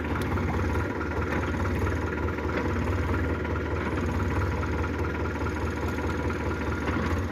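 Tractor's diesel engine running steadily, stuck in mud.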